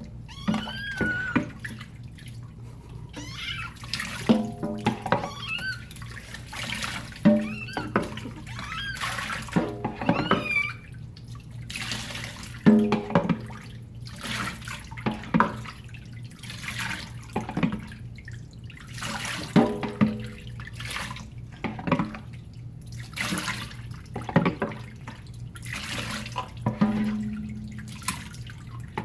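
Water splashing and pouring over a kitten as it is rinsed in a bath, in repeated short gushes. The kitten cries out now and then, with rising and falling pitched calls. A steady low hum runs underneath.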